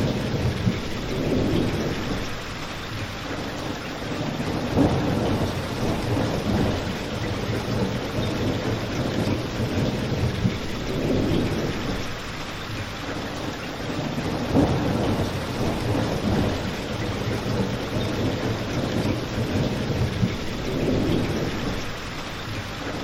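Steady rain falling, with low rumbling swells every few seconds and a few sharp pops from a crackling fireplace.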